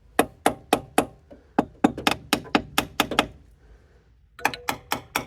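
Rapid tapping with a hammer on metal engine parts, about four sharp strikes a second with a slight ring. It pauses about three seconds in and starts again about a second later.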